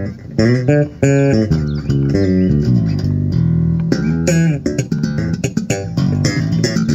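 Early-1990s USA-made Peavey Cyrus electric bass played solo through an amp with every control turned up to 10: a fast run of plucked notes with sharp, bright attacks.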